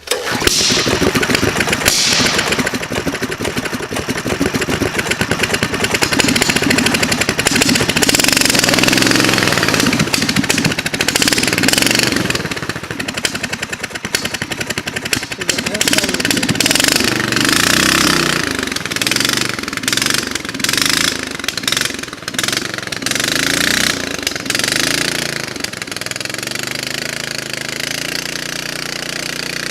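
Single-cylinder 420cc engine of a mini bike converted to a trike, running under load and revving up and down repeatedly, then settling to a steadier, quieter run over the last few seconds.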